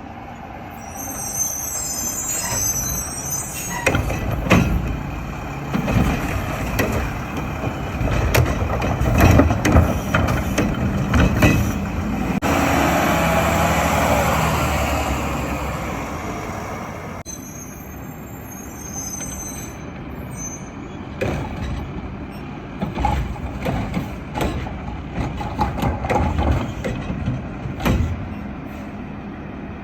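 Mack garbage truck with a Heil automated body collecting carts: repeated clanks and knocks of the arm and carts over the running diesel engine, with a hiss of air for about five seconds midway that starts and stops abruptly.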